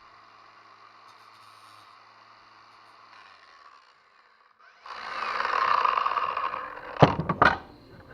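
A power tool whirs loudly for about two seconds, then several sharp knocks and clatters follow in quick succession.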